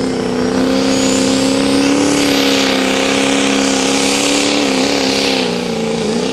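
Ford Power Stroke diesel pickup pulling a sled at full throttle, its engine held at high revs with a high whistle rising over the first two seconds. Near the end the engine pitch wavers and drops.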